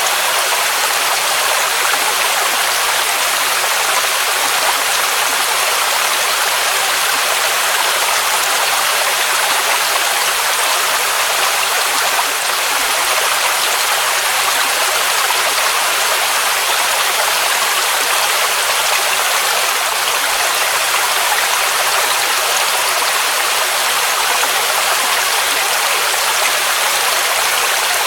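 Mountain waterfall rushing steadily: a loud, even hiss of falling water, bright and thin with almost no low rumble.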